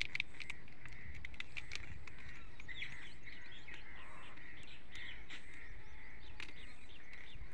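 Many small birds chirping, short chirps following one another over a steady outdoor background.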